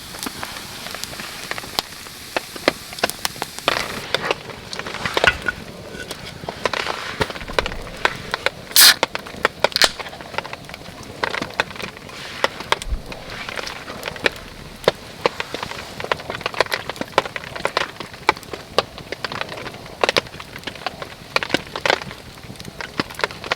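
Wood crackling and snapping in an irregular run of sharp cracks, with one louder crack about nine seconds in, over a steady hiss of rain.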